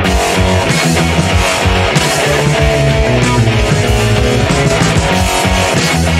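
Instrumental rock music with loud distorted electric guitars, bass and drums, without vocals.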